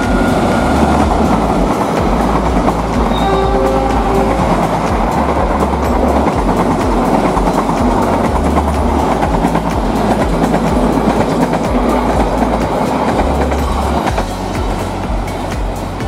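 Diesel locomotive and its passenger coaches passing close by: steady low engine rumble under the wheels clattering along the rails, easing off slightly near the end.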